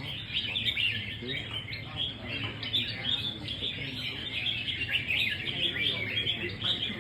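Many caged red-whiskered bulbuls singing at once in a song contest: a dense, unbroken chorus of overlapping chirps and warbles.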